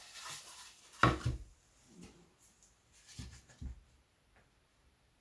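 A sharp knock about a second in, then a few quieter knocks and clunks: tools being handled and set down on a workbench.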